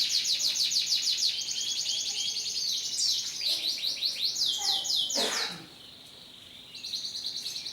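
Canary singing in fast trills of rapidly repeated high notes, changing its phrase every second or so, breaking off for about a second two thirds of the way through and starting again near the end.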